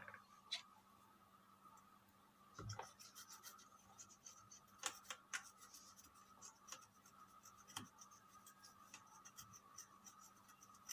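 Faint scratching and rubbing as a chip on a motherboard is scrubbed clean with thinner, in small irregular strokes starting a couple of seconds in. A faint steady hum runs underneath.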